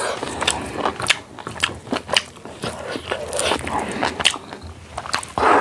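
Close-miked eating sounds: a person chewing and crunching food, with many short, crisp crunches and mouth clicks one after another.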